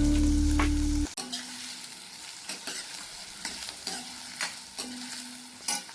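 Food sizzling as it fries in a pan, with a spoon stirring and tapping against the pan in sharp ticks and knocks. A steady low hum cuts off about a second in.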